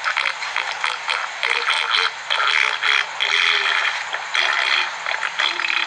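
Close-up, wet eating sounds: a rapid run of chewing, smacking and slurping on juicy mango.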